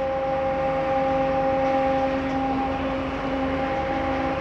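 Automatic car-wash brushes rotating and scrubbing over the car, under a steady motor hum.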